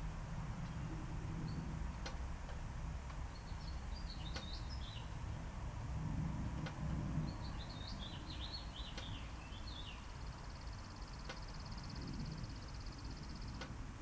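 Songbird singing: two quick warbled phrases, then a long, even high trill lasting about three seconds near the end, over a constant low background rumble.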